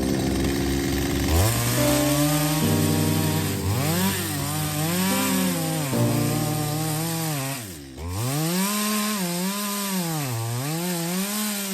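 Chainsaw cutting zelkova wood, its engine pitch sagging and rising again and again as the chain bites. The pitch and loudness drop sharply about eight seconds in, then pick back up.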